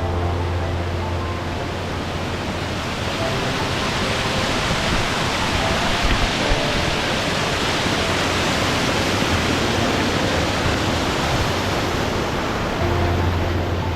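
Waterfall rushing, a steady roar of falling water that swells in the middle. Background music sits under it at the start and comes back in near the end.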